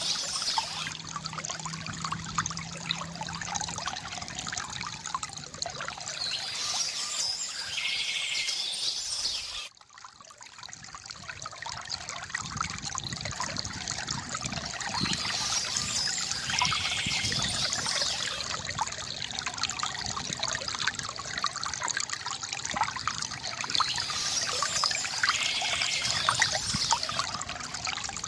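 Water trickling and splashing steadily from a bamboo fountain, with birds chirping now and then. The water sound drops away suddenly about ten seconds in and fades back up.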